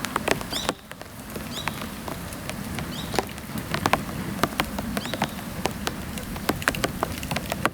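Dry bamboo burning in a bonfire, crackling with many irregular sharp pops and ticks, over a steady patter of rain.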